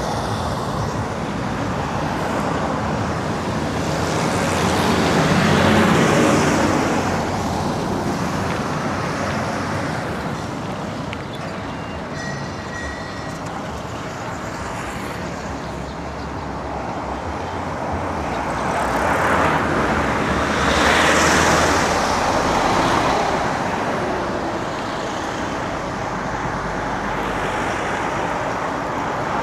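Road traffic heard from a bicycle: a steady rush of passing cars and trucks, swelling louder twice as vehicles go by close.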